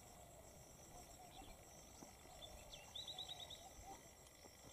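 Near-silent outdoor ambience: a bird gives a quick run of about six short high chirps about three seconds in, over a faint steady high drone.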